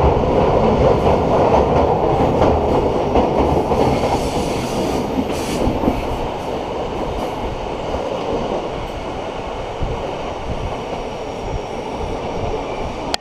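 Electric Bernina Railway train running along the track: a steady rumble of wheels on rails with a light clickety-clack. It is loudest for the first four seconds, then settles a little quieter.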